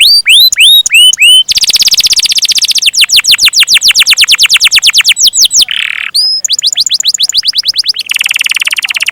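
Canary singing a long rolling song: rapid trills of repeated rising notes, broken by a few single upswept whistles and short buzzy passages.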